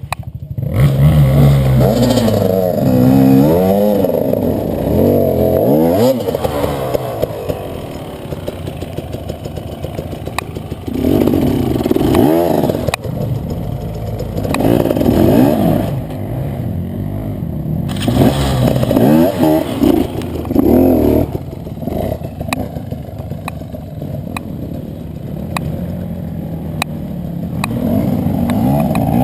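Enduro motorcycle engine revving up and down in repeated bursts as it works through rough ground, with clattering and scraping knocks in between.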